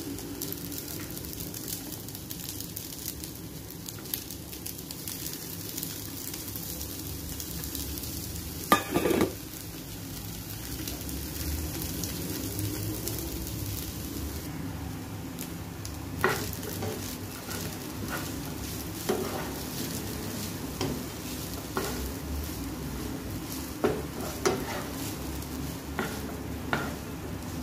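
Fried rice sizzling in a frying pan as a spatula stirs and turns it, with a steady hiss. There is one louder clatter about nine seconds in, and from the middle on the spatula gives a scatter of sharp taps against the pan.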